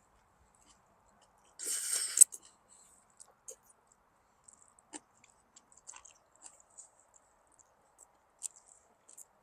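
Eating sounds at a meal of jjajangmyeon: a short noisy burst about two seconds in that ends in a sharp click, then scattered small clicks and smacks of chewing.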